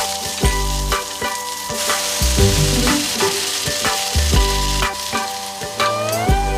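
Cabbage sizzling in a hot stainless-steel wok as it is stir-fried with a wooden spatula, with background music.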